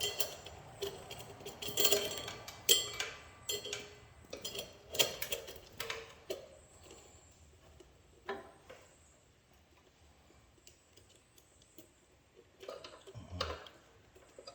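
Metal roller chain clinking and rattling as it is handled and worked onto a mini bike's sprocket. The sharp metallic clinks come thick for the first six seconds or so, then thin out to a few scattered ones.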